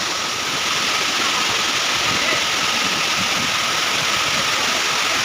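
Waterfall crashing down close by: a steady, unbroken rush of falling water.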